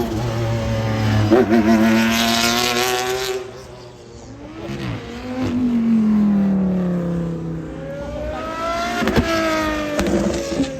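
High-performance car engine accelerating hard past the listener, its pitch climbing, dropping at gear changes and falling away in the middle, then climbing again near the end.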